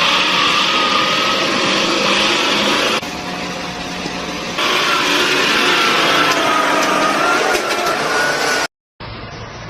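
Car engine and road noise from a moving vehicle, with a whine that rises and falls in pitch. Near the end the sound cuts out and gives way to a quieter, duller engine hum.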